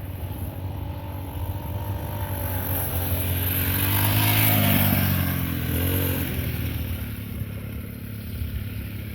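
Dirt bike engine running as it rides past, growing louder to a peak about halfway through, then fading away.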